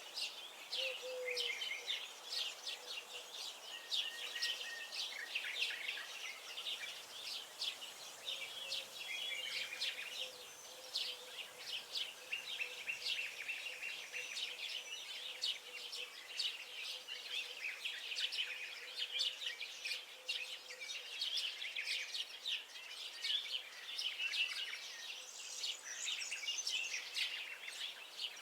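Many songbirds singing and chirping at once: a dense, unbroken chorus of short, high notes.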